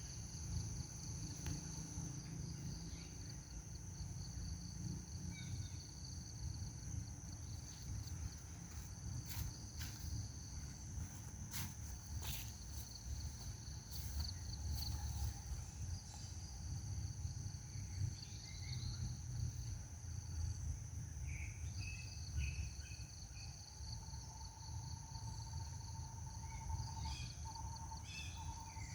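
Steady high-pitched insect trilling, several layered tones held throughout, over a low rumble, with a few sharp clicks in the middle and short bird chirps near the end.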